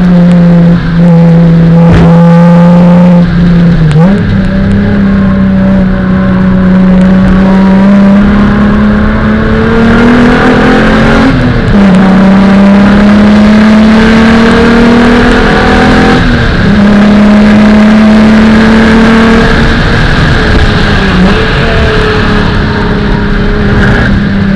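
1995 VW Golf VR6's narrow-angle V6, heard loud from inside the cabin at track speed. The engine note climbs slowly and steadily, then drops sharply about four seconds in, again near the middle and again about two-thirds through.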